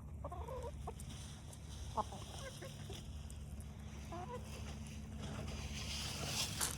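Chickens clucking softly: a few short, scattered calls while the flock eats its treats, with a hissy rustle building near the end.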